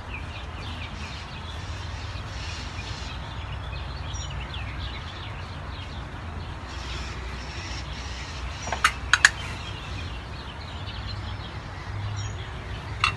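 Low steady background hum with faint bird chirps, and a quick run of sharp clicks about nine seconds in, with one more near the end.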